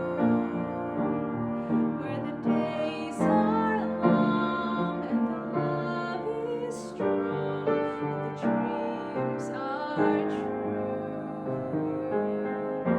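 Piano music with notes held and overlapping throughout.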